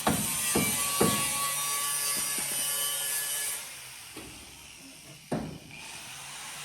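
Workshop tool noise: a few evenly spaced knocks, then a rasping, rubbing sound that stops about three and a half seconds in, and a single knock near the end.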